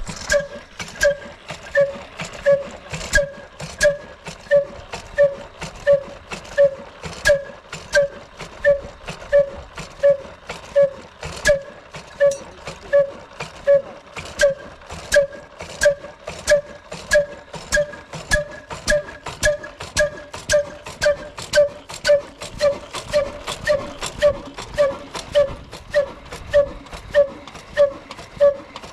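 Old slow-speed desi 'black' diesel engine of the Ruston type, 22 hp, running just after being hand-cranked, each firing stroke giving a separate exhaust beat with a sharp knock, about one and a half beats a second, very even.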